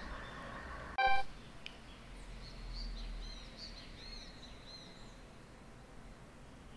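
Small birds chirping in a quick series of short high notes for a few seconds, after a brief loud beep-like tone about a second in.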